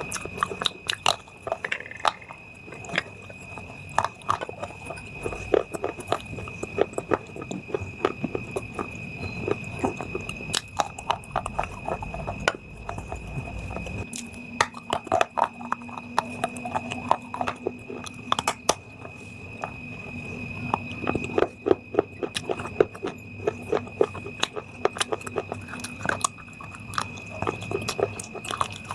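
Close-miked eating: bite after bite of a hard, brittle item crunching and cracking between the teeth, with chewing, as a rapid irregular run of sharp crunches.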